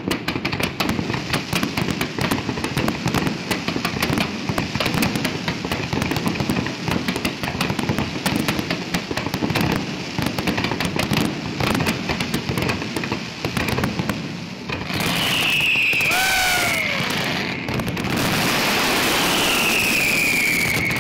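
Fireworks display fired at close range: dense, rapid crackling and popping from many shells and fountains at once. About fifteen seconds in, a louder steady rushing hiss takes over, with two falling whistles.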